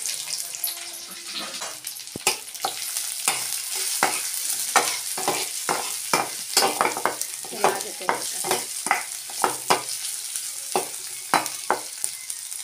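Sliced onions, garlic and green chillies frying in hot oil in a frying pan, a steady sizzle, with a spatula repeatedly scraping and clicking against the pan as they are stirred.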